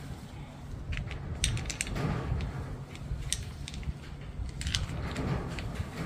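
Scattered light metallic clicks and clinks of engine parts and hand tools being handled over a low background hum. The parts are timing-chain tensioner guides and their pivot bolt.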